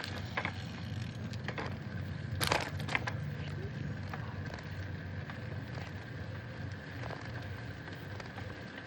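Steady low rumble of a bicycle riding along, picked up by a handheld phone, with a few sharp knocks and rattles, the loudest about two and a half seconds in.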